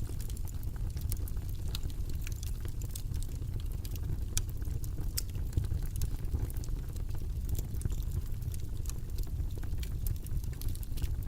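A steady low rumbling noise bed with scattered light clicks and taps from desk work while studying, a few per second at irregular spacing.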